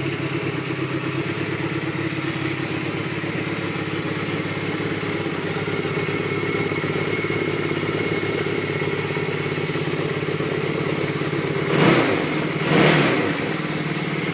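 Honda CB250 Nitehawk's 250cc twin-cylinder engine idling steadily, then blipped twice near the end, the pitch rising and falling quickly each time.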